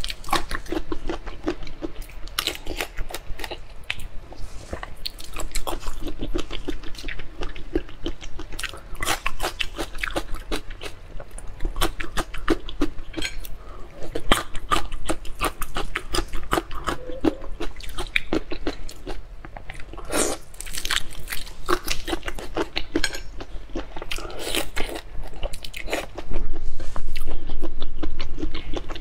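Close-miked eating of soy-sauce-marinated shrimp: dense, irregular crunching, wet clicks and chewing as the shrimp are bitten and chewed, with a louder stretch near the end.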